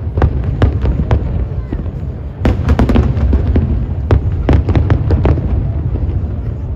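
Aerial fireworks bursting in quick, irregular succession: sharp cracks and bangs, thickest in two clusters a few seconds apart, over a steady heavy low rumble.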